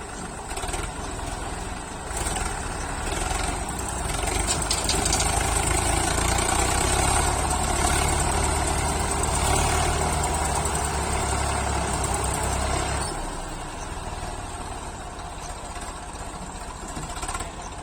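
Diesel tractor engine running, its revs and loudness rising about four seconds in and held up for some nine seconds before dropping back to a steadier idle.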